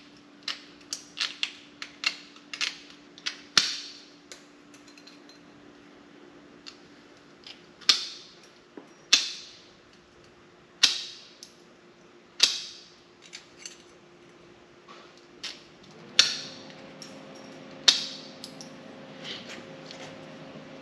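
Hand snips trimming a sheet-metal patch panel: a quick run of sharp metallic clicks in the first few seconds, then single sharp snips every second or two. A faint steady hum sits underneath.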